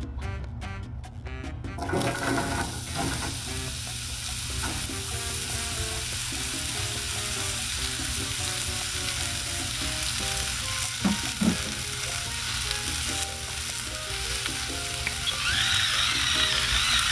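Sliced onions sizzling in oil on a hot Blackstone 22-inch flat-top griddle. The sizzle starts about two seconds in and grows louder near the end. Two light knocks come about eleven seconds in, and background music plays underneath.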